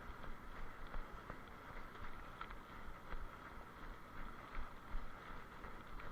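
Steady rushing wind noise on the microphone with a low rumble, and scattered light clicks and rattles.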